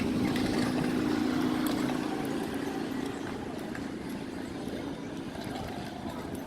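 A steady engine hum that fades away over the first three seconds, with faint scattered ticks and knocks.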